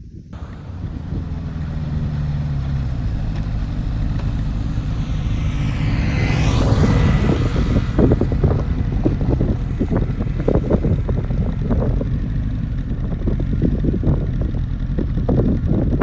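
Honda CB750F's air-cooled inline-four running through a Moriwaki aftermarket exhaust while the bike is ridden, the engine rising in pitch over the first few seconds and then running steadily at speed, with wind noise on the microphone.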